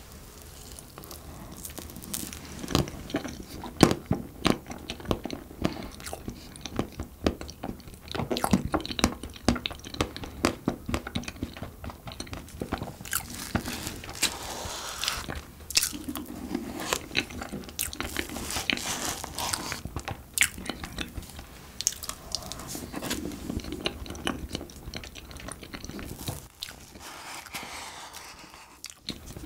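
Close-miked chewing of soft green tea cupcake with custard cream: wet, sticky mouth sounds with many sharp clicks and smacks.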